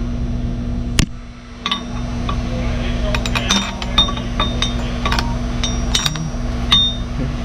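Light metallic clinks and taps, a dozen or so spread irregularly, each ringing briefly, as metal parts are handled. A steady low hum runs underneath.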